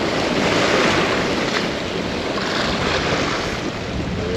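Steady rush of ocean surf with wind buffeting the microphone, swelling and easing slowly.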